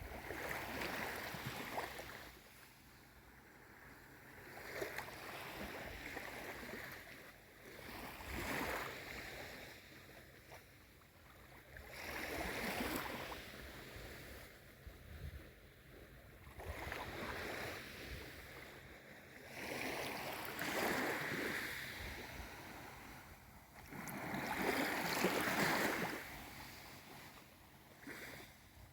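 Gentle waves of a calm sea: a wash of water that swells and fades about every four seconds.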